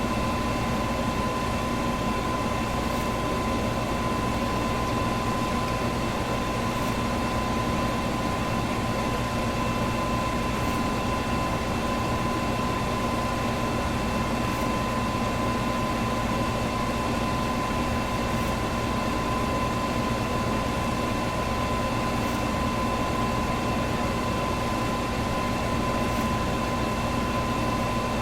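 Electric box fan running steadily: an even rush of air with a steady motor hum and a thin, constant whine on top, and a faint tick about every four seconds.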